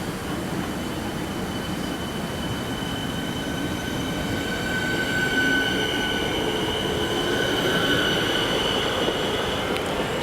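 Electric suburban train running through, its wheels squealing in steady high tones that grow louder over the middle seconds, above a rumble of running noise.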